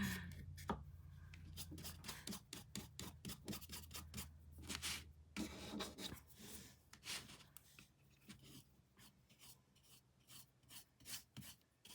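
Paintbrush scrubbing and dabbing thick paint onto canvas: a quick, irregular run of short scratchy strokes, busier in the first half and sparser toward the end.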